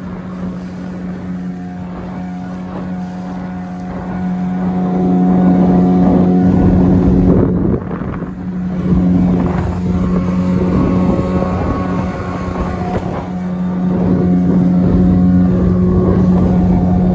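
Boat's outboard motor running at a steady pitch while under way, with wind on the microphone. It gets louder about four seconds in, drops briefly near eight seconds, and picks up again near the end.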